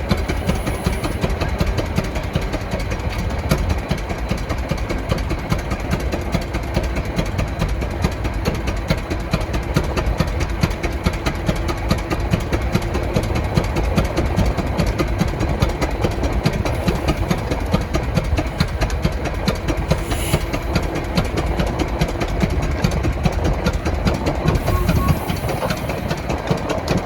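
Antique engine running steadily with a rapid, even beat.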